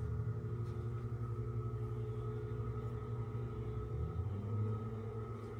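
Steady low mechanical hum with a few steady tones over it, changing slightly about four seconds in.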